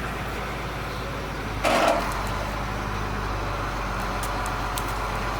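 A vehicle's engine running steadily with a low, even hum while pulling a non-running truck, with one short loud burst of noise a little under halfway through.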